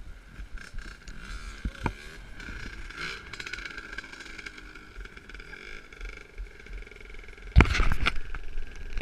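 Motocross motorcycle engines running in the distance, a steady drone. About seven and a half seconds in, loud knocks and rustling take over.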